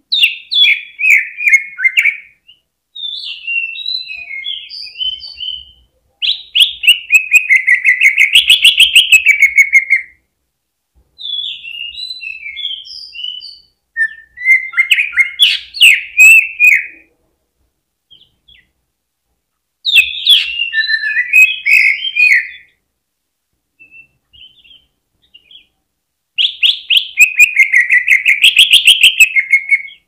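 Green leafbird (cucak ijo) singing loudly in separate bursts of varied, chattering whistled phrases with short pauses between. Twice, a little after the first quarter and again at the end, it runs into a long, rapid trill of repeated notes. It is the excited, full-on song used as a lure (pancingan) to set other cucak ijo singing.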